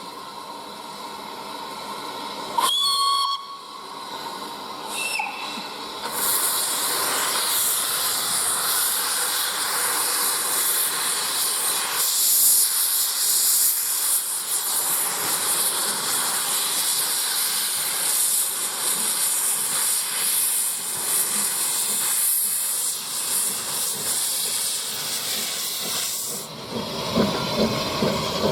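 Steam locomotive: a short whistle blast about three seconds in, then a loud, steady hiss of steam lasting some twenty seconds, giving way near the end to the rumble and rhythmic clatter of the train's wheels on the rails.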